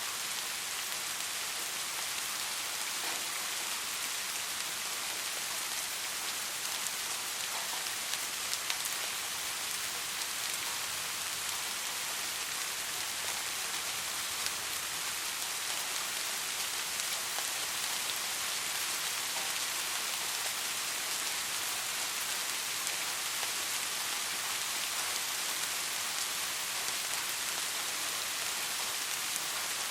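Steady soft rain: an even hiss of rainfall with scattered patters of individual drops.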